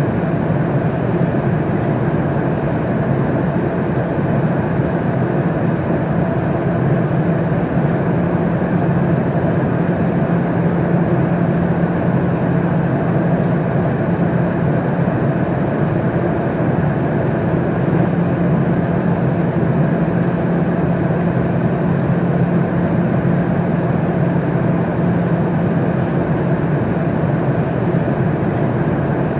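Airliner cabin noise in flight: a steady, unbroken rumble and hiss of engines and airflow with a constant low hum.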